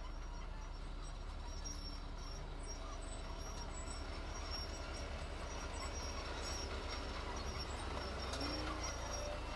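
Heavy diesel construction machinery running steadily, a low throbbing engine rumble that grows a little louder near the end.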